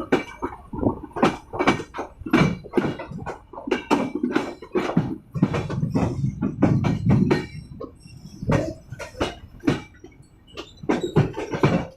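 Irregular knocking and rattling of a passenger train coach, with a low rumble that swells around the middle.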